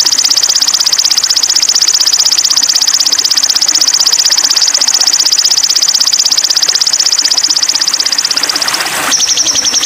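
Recorded songbird song played for bird training: one long, very fast high-pitched trill that switches abruptly to a slightly lower trill near the end.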